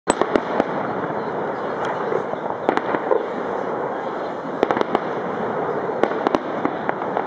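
Fireworks salute going off: sharp bangs at irregular intervals, several in quick clusters, over a steady noise.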